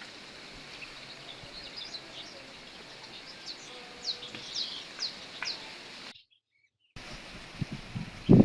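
Garden wind ambience: a steady hiss of wind with small birds chirping, a quick series of downward-sweeping chirps between about two and five seconds in. The sound drops out for a moment just after six seconds, then loud low gusts of wind buffet the microphone near the end.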